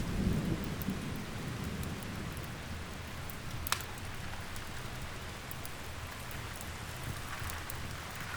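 Steady rain with the tail of a low thunder rumble in the first second, over the scattered pops of a crackling wood fire, one sharper pop a little under four seconds in.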